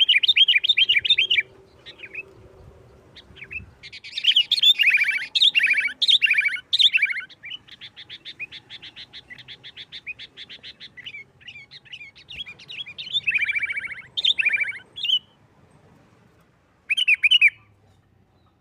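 Sooty-headed bulbul singing in loud, fast, chattering phrases, with a long rapid run of evenly spaced notes, about eight a second, through the middle; several short bursts follow, the last one near the end.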